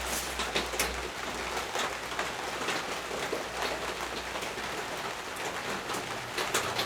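Steady rain falling, an even hiss dotted with sharper drop-like clicks; a low hum fades out about a second in.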